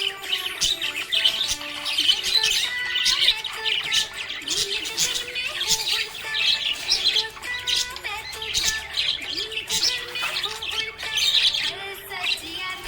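Pet budgerigars chirping and squawking without pause: many rapid, overlapping high chirps.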